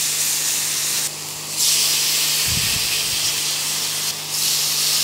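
Marinated chicken breast sizzling on a hot, oiled non-stick grill pan as pieces are laid in with tongs. The hiss drops briefly about a second in and again near four seconds, then comes back, with a low thump about two and a half seconds in.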